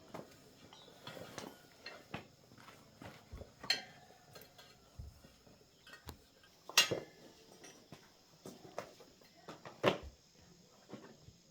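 Scattered clinks and knocks of metal objects being handled, irregular, with two louder strikes about seven and ten seconds in.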